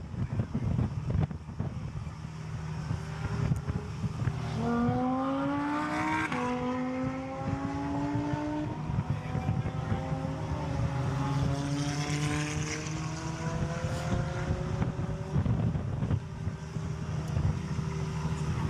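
A performance car's engine accelerating hard on a race track. It rises in pitch, then drops sharply at an upshift about six seconds in, climbs again, and shifts again a couple of seconds later. Heavy wind rumble on the microphone runs underneath.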